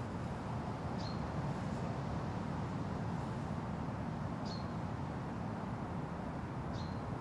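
Steady wind rushing through forest trees, with a bird giving a short, high chirp three times, a few seconds apart.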